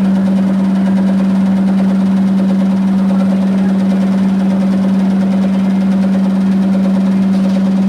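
Electrolux 15 kg commercial washing machine spinning with a loud, steady hum, a noise likened to a helicopter.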